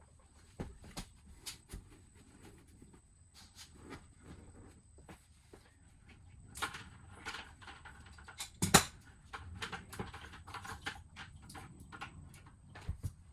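Scattered clicks, taps and clanks of hand-tool work on hose fittings, with one louder clank a little under nine seconds in.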